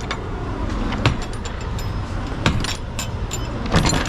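Semi truck's diesel engine running low and steady, with scattered light metallic clicks and jingles over it.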